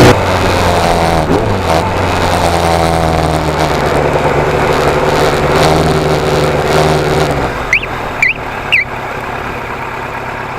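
Motorcycle engine idling steadily, then shut off abruptly about seven seconds in. Short high chirps, like a bird's, follow three times near the end.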